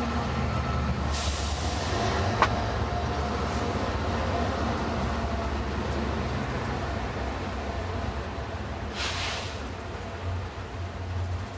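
A steady low rumble and hum, with two short hissing sounds, one about a second in and one near the end, and a single sharp click.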